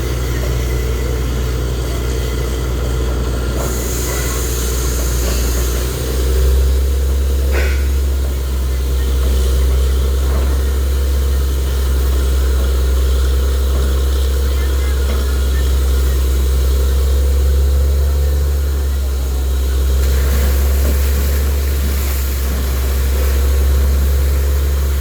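Borewell drilling rig's heavy diesel engine running steadily with a deep hum that never drops out. The hum steps up slightly about six seconds in.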